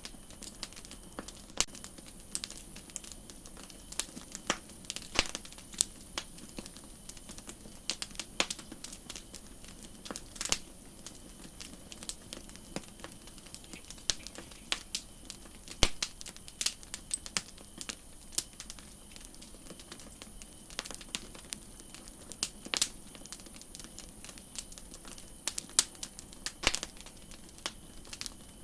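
Campfire crackling: irregular sharp pops and snaps of burning wood over a steady hiss.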